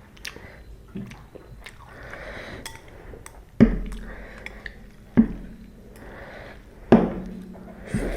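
Close-miked eating of ramen noodles: wet chewing with many small clicks, and three louder knocks spaced about a second and a half apart.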